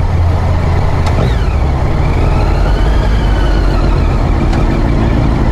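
Vehicle engine and road noise running steadily with a heavy low rumble, a faint high whine rising and falling through the middle.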